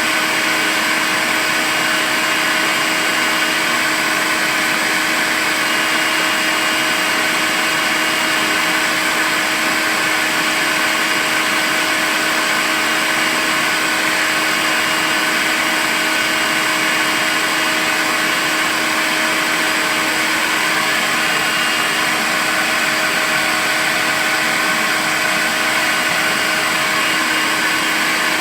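Makita cordless vacuum cleaner running continuously at a constant speed: a steady motor hum over a rushing airflow hiss, with no change in pitch or level.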